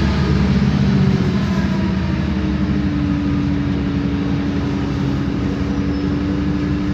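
Isobus City 1200 city bus underway, its MAN D0836 diesel running steadily. About two seconds in, a steady drivetrain whine from the ZF automatic gearbox and differential comes in and holds.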